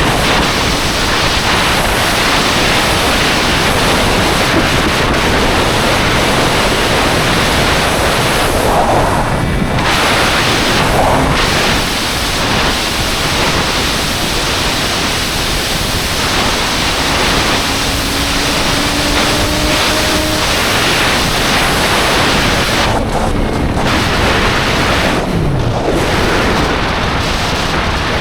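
Steady, loud wind rush over the microphone of a moving Triumph Street Triple 765 R motorcycle. A faint engine tone rises slightly now and then underneath.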